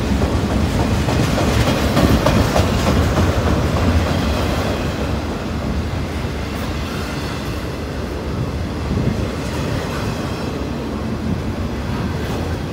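Double-stack container train's well cars rolling past close by: a steady rumble of steel wheels on rail with clattering over the rail joints, easing slightly after about five seconds.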